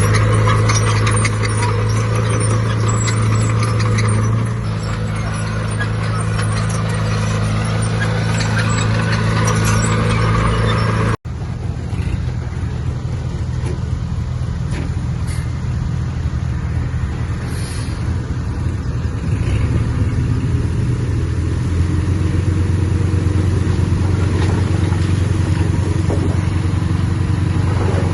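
Heavy diesel engine of earthmoving machinery running steadily, with a lot of clanking and rattling over it for the first eleven seconds or so. The sound drops out for an instant about eleven seconds in, then the engine runs on more smoothly.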